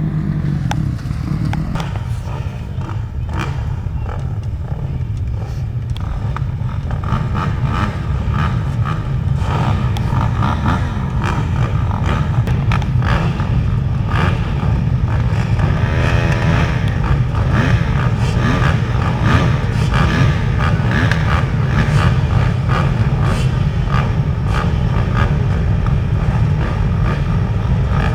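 Motocross bikes' engines running and revving over a steady low rumble, with many short clicks and knocks.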